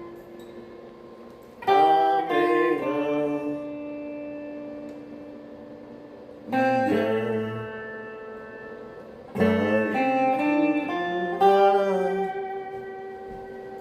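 Solo instrumental music on a plucked string instrument: four short phrases of notes, each struck, bent into pitch and left to ring and fade slowly.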